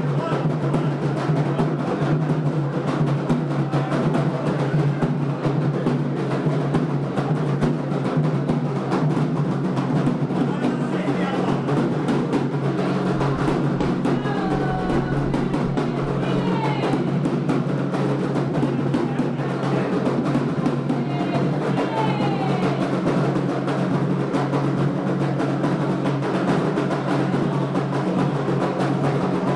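Candomblé ritual drumming on atabaque hand drums, a dense and steady rhythm that keeps going without a break. A few short sliding high tones come in around the middle.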